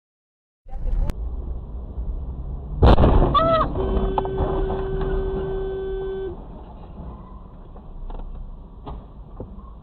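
Traffic and engine rumble from a car on the road, broken about three seconds in by a loud sudden bang, followed by a car horn held for about two and a half seconds.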